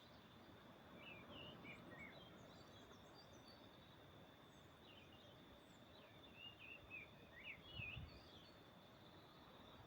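Faint dusk ambience with songbirds chirping intermittently, in short high twittering phrases about a second in and again between about six and eight seconds in, over a steady faint high insect-like hum. A brief low thump comes near the end.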